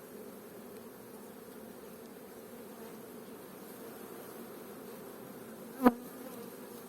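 Honey bees humming steadily around an open hive, a strong colony with even brood and a well-laying queen. Just before the end there is one brief, sharp, louder buzz close to the microphone.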